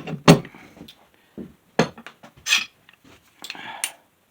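Metal clamps being handled and set down on a workbench: a few separate clanks and clinks of metal knocking against metal and wood.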